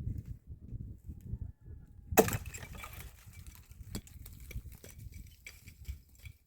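A single sharp crack about two seconds in, followed by scattered lighter clicks and knocks over a low, uneven rumble.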